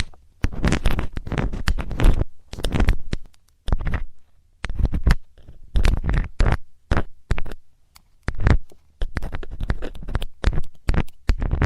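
Close-up scraping and rubbing of a metal ear-cleaning tool in a binaural microphone's ear: irregular strokes of scratchy noise with short pauses between them.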